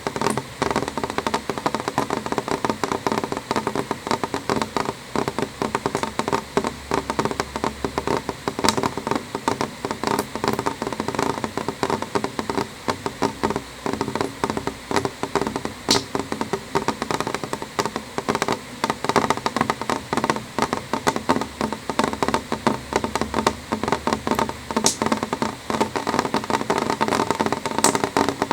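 Rain falling on a window pane: a dense, steady tapping of drops on the glass, with a few sharper single clicks standing out.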